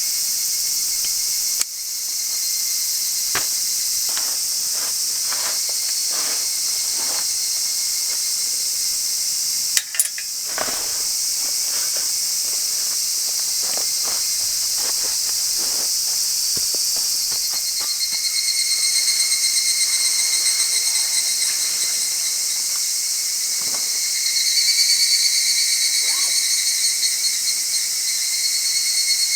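Dense chorus of summer insects buzzing steadily in a forest, with a pulsing trill that swells up after about eighteen seconds and again later on. Scattered small clicks and knocks sound over it, with one sharp knock about ten seconds in.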